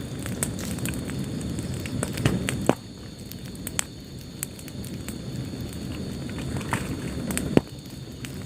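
Wood fire burning in a fireplace: a steady low rumble of flames with scattered crackles, and two louder sharp pops, one about two and a half seconds in and one near the end.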